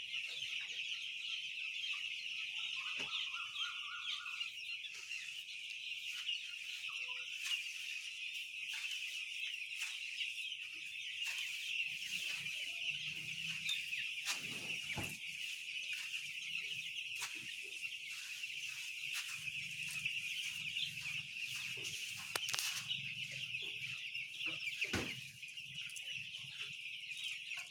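A large flock of chickens, many birds cheeping and clucking at once into a continuous chatter, with a few brief knocks.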